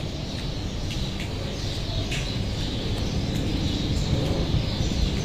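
Outdoor alley ambience: a steady low rumble with faint, scattered bird chirps.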